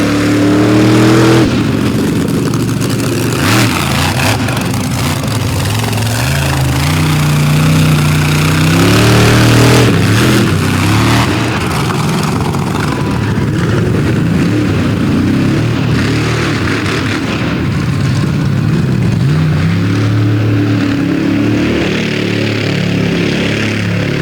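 Monster truck engine revving up and letting off over and over during a run. It sounds rough: the engine is not running at full strength, which the announcer puts down to it either leaning out or dropping a cylinder.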